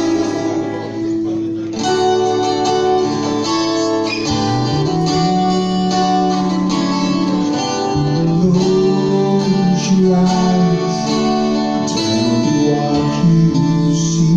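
Live acoustic band playing an instrumental passage without vocals: strummed acoustic guitar chords over a low line that changes notes every couple of seconds.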